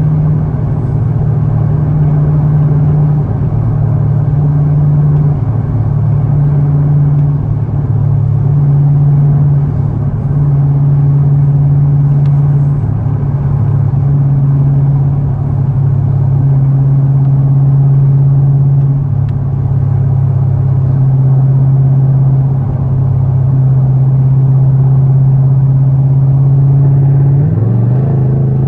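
Camaro ZL1's supercharged V8 running steadily at highway speed, a constant engine drone that holds its pitch with small steps up and down. About a second before the end the engine note rises as it accelerates.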